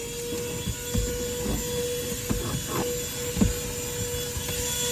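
Vacuum cleaner running at a steady pitch, its motor having just spun up, with several sharp knocks and rattles over the hum, the loudest about three and a half seconds in.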